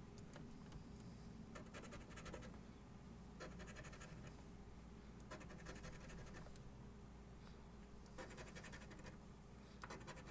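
Coin scratching the coating off a lottery scratch-off ticket: faint, short bursts of rapid back-and-forth strokes, about five of them with pauses between.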